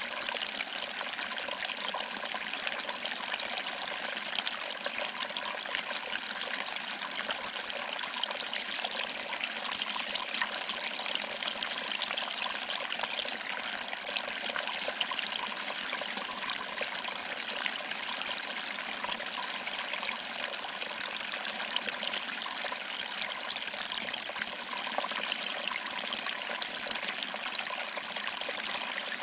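Small waterfall: water trickling over rocks and splashing into a pool below, a steady, even rush with no changes.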